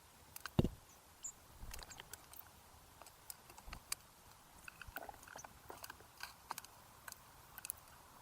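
Birds feeding at a seed feeder close to the microphone: irregular pecking taps and seed-cracking clicks, with a heavier thump about half a second in.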